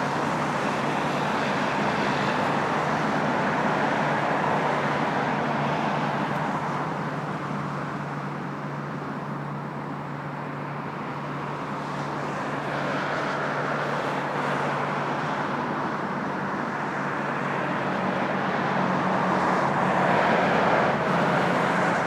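Jet airliner engine noise near the runway: a steady roar that eases off around the middle and swells again near the end.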